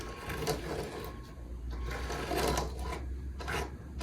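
Small N-scale model lorry pushed by hand along damp scenery, its tiny wheels making a fast gritty rattle in uneven bursts as they press tyre tracks into the wet surface.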